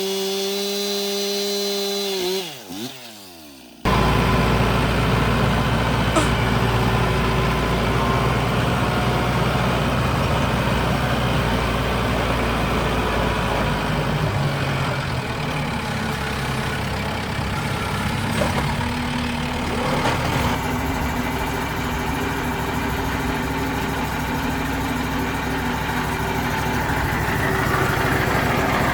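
A small motor runs at a steady high pitch, then winds down and stops. Then a loud engine runs steadily under a noisy mechanical din.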